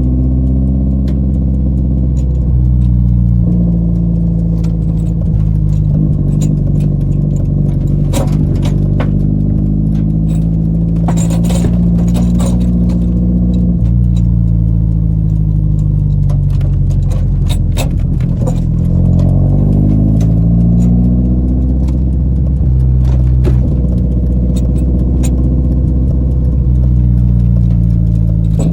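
Car engine running as the car is driven, its pitch stepping up and down several times as engine speed changes, with scattered clicks and rattles through the middle.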